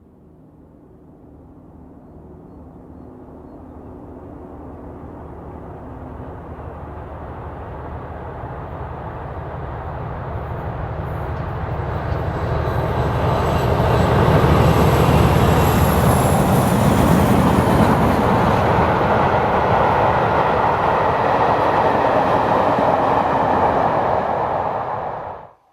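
Class 47 diesel locomotive with its train approaching and passing. Its engine note grows steadily louder for about fourteen seconds, then the loud rush of the passing train holds until it cuts off suddenly near the end.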